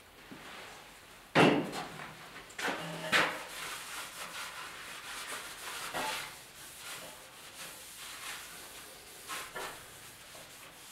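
Workshop handling sounds: a few knocks and clunks of objects being moved and set down, with light rubbing between them. The loudest clunk comes about a second and a half in.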